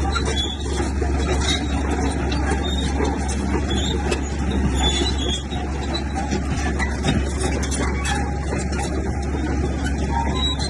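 Heavy diesel earthmoving machinery running steadily under load, with frequent short metallic clanks and knocks.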